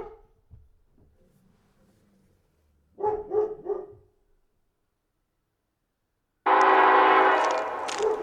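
A dog barks once, then three quick barks about three seconds in. Near the end a Norfolk Southern locomotive horn blasts loudly, a sustained chord that starts suddenly.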